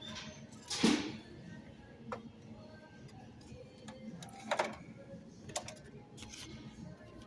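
A handful of separate clicks and knocks, the loudest about a second in, over faint background music.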